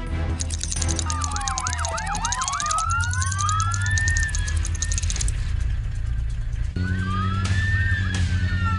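Police car sirens, several overlapping, switching between a fast yelp and slow rising and falling wails over a steady low rumble. They drop away about five seconds in and start again near seven seconds.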